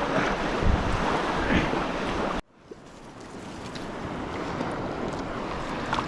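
River rapids rushing, with wind buffeting the microphone in low thumps. About two and a half seconds in the sound cuts out abruptly, then the rush of water fades back in and holds steady.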